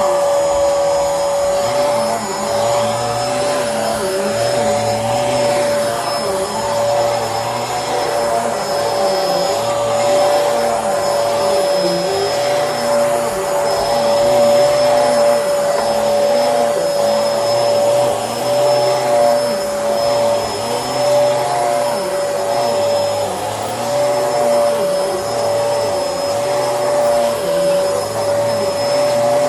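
Bissell Helix vacuum cleaner running, with a steady high motor whine over the rush of its airflow. The lower part of the sound swells and fades in a regular rhythm about once a second.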